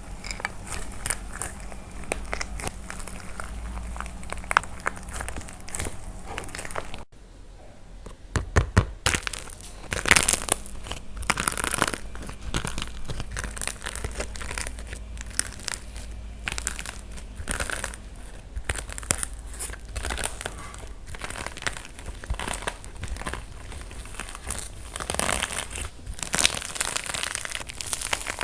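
Dry plaster clay being cracked and crumbled: a dense run of crunchy crackles and small pops. It breaks off briefly about seven seconds in, then comes back with a few heavier crunches.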